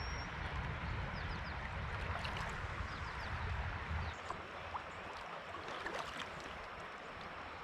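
Steady rush of river water around a kayak on the current, with a low rumble underneath that stops about halfway through.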